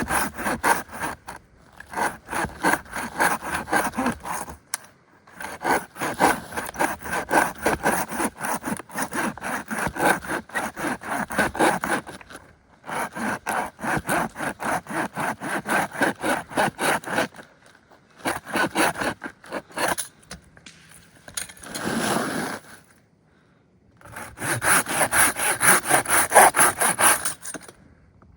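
A hand saw cutting through wood in a steady back-and-forth rhythm of rasping strokes, in several runs broken by short pauses.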